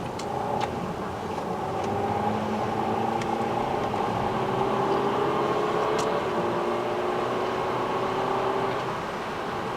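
Car engine accelerating, its pitch climbing slowly and getting louder about two seconds in. The pitch dips slightly about six seconds in, and the engine eases off near the end.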